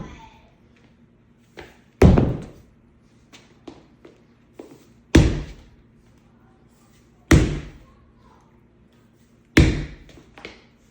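A 35-pound sledgehammer striking rubber sledgehammer blocks, one crumb rubber and one vulcanized rubber: four heavy thuds about two to three seconds apart, each fading quickly, with a few light knocks between them.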